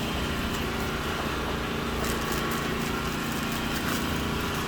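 A small engine running steadily at a constant speed, giving an even hum. A few light crackles come about two seconds in.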